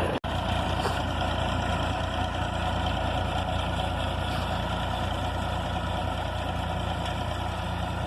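A tractor engine running steadily at an even speed, with a brief cut-out just after the start.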